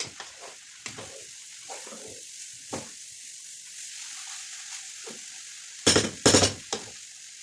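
Shredded cabbage and carrots sizzling in a frying pan while being stirred, with a steady hiss and light scattered knocks of the utensil. About six seconds in come two loud, brief bursts of clatter and scraping against the pan.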